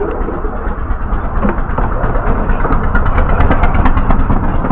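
Miniature railway train passing close by: the small locomotive's engine runs with a steady low rumble that grows louder as it comes under. A run of short clicks from the train sounds over it in the second half.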